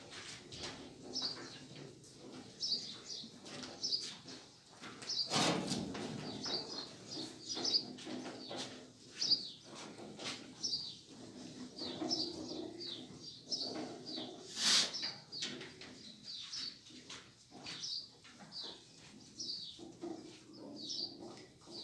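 Small birds chirping again and again, high and quick, over scattered knocks and rustles; a louder sudden noise about five seconds in and another near fifteen seconds.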